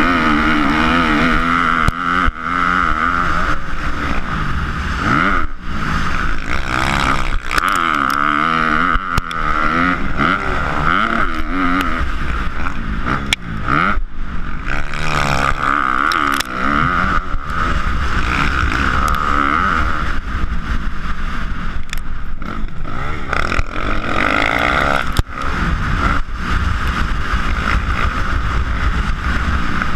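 Motocross dirt bike engines running on a track, their pitch repeatedly rising and falling as the throttle opens and closes, with a steady noisy hiss under them.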